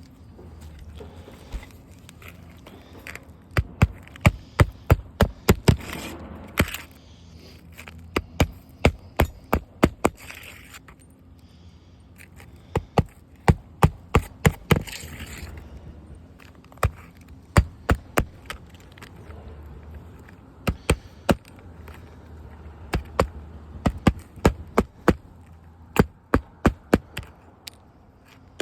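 Sharp knocks or taps repeated in runs of several, a few a second, with short pauses between the runs.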